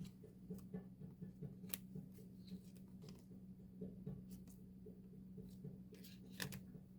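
Hands handling an album's packaging and contents: scattered small clicks and crinkles of paper and plastic, over a steady low hum.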